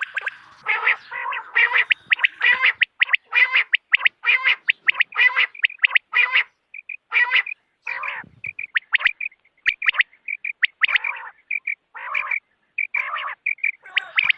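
Quail calls from a hunting lure recording: call notes repeat quickly, about two a second. From about halfway, shorter, higher notes are mixed in among them.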